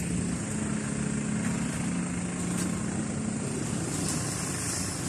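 A motor vehicle's engine running with a steady low hum that fades out about three seconds in, over steady outdoor traffic noise.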